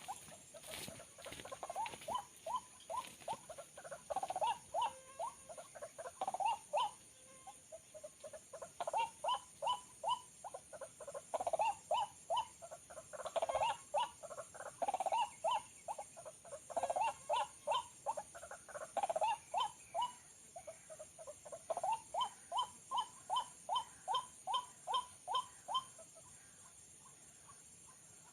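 White-breasted waterhen calling: short rising notes repeated at about two to four a second in long series, broken by brief pauses, over a steady high-pitched hiss.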